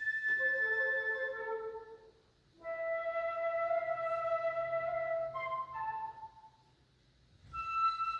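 Flute trio of piccolo, flute and alto flute playing long held notes, breaking off twice into brief rests.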